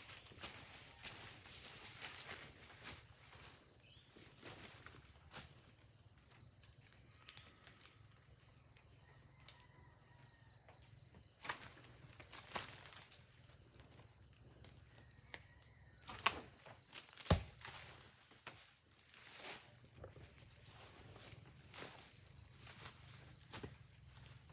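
Steady high-pitched chorus of insects, with scattered footsteps and two sharp snaps or knocks a second apart about two-thirds of the way through.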